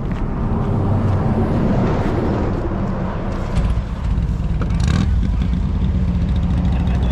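Motor vehicle engine running steadily, growing louder and deeper about halfway through, with a brief sharp noise around five seconds in.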